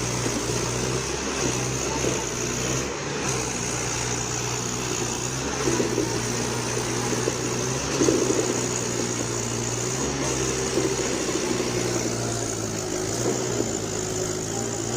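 Mahindra tractor's diesel engine running steadily, with a low, even drone and small swells in level now and then.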